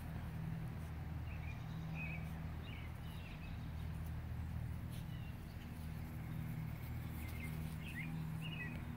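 Birds chirping in short, scattered calls, in two spells, over a steady low hum.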